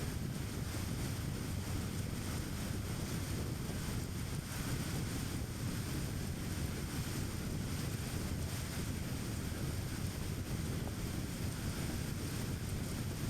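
Steady road noise of a car driving: tyre rumble and wind, even and unbroken.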